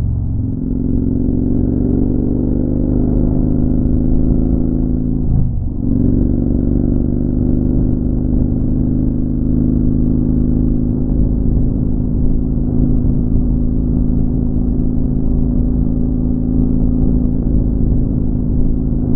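Motorcycle engine running at highway speed, its pitch rising gently for the first few seconds. It dips briefly about five seconds in, then runs steady.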